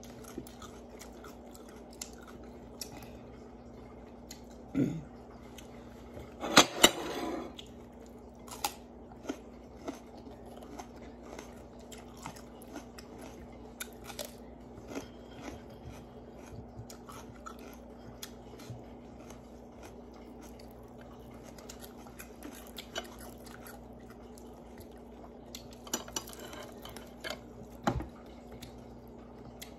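Close-up eating sounds of someone chewing and biting into raw vegetables: soft crunching and many small mouth clicks, with a louder crunchy burst about seven seconds in. A steady low hum runs underneath.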